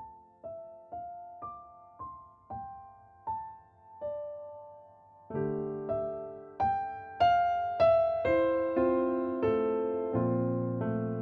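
Background piano music: a slow melody of single notes struck about twice a second, each fading away, joined about halfway through by fuller chords that make it louder.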